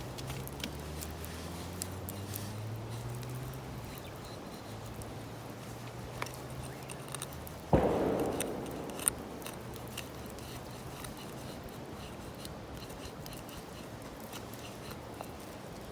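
Wood fire crackling with scattered small pops and snaps. About eight seconds in comes a sudden thump that fades over about a second, then a single sharp pop. A faint low drone runs under the first half and stops just before the thump.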